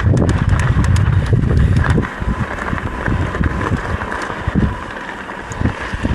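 Mountain bike riding over rocky trail: frame and parts rattling, tyres knocking over rocks. Heavy wind rumble on the microphone for the first two seconds, then scattered sharp knocks.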